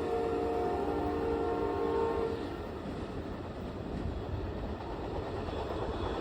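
Amtrak passenger train's horn sounding a chord that stops about two seconds in, followed by the steady rumble of the train rolling through on the rails.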